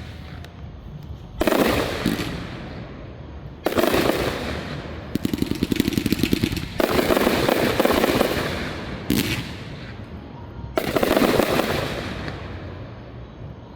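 Aerial fireworks shells bursting in a series of loud booms, each trailing off in a fading rumble, with a rapid run of crackling a little past five seconds in.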